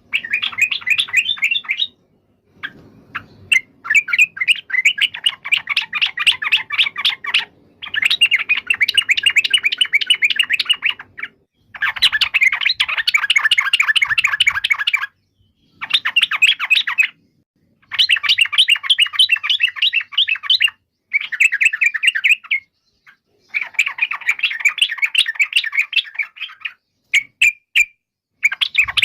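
Sooty-headed bulbul (trucukan) singing: fast, chattering runs of notes in bouts of one to three seconds, broken by short pauses.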